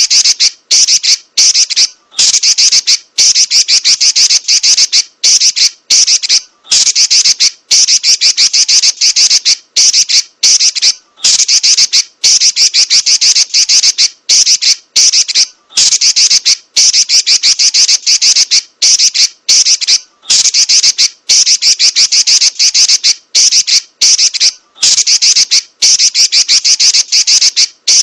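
Female red-billed leiothrix (Pekin robin) giving its rapid, high-pitched rattling 'nyerecet' call over and over, in runs of about one to two seconds separated by brief gaps.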